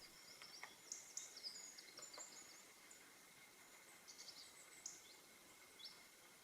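Faint outdoor ambience with small birds chirping in short high-pitched clusters over a steady faint high tone.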